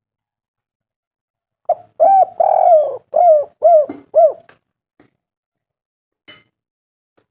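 Spotted dove (tekukur) cooing: one phrase of about six coos, the middle one longer, starting about two seconds in. It is a lure call meant to set other doves singing.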